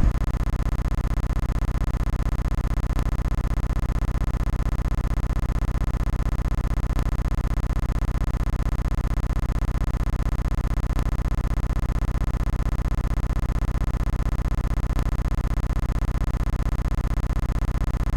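A steady electronic hum, strongest in the bass, with a fast even pulse and a faint tick about every four seconds.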